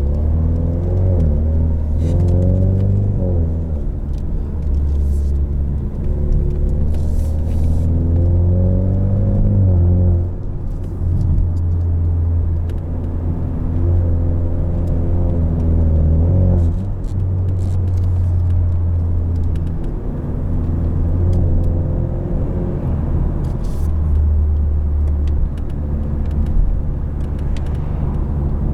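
2020 Ford Mustang EcoBoost's turbocharged four-cylinder engine, heard through its active valved performance exhaust, accelerating through the gears. The revs climb and drop back at an upshift three times, then hold at a steadier drone. The exhaust is so loud.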